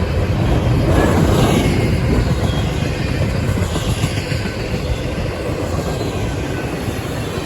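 CSX intermodal freight train's cars rolling past at speed: a loud, steady rumble of steel wheels on rail.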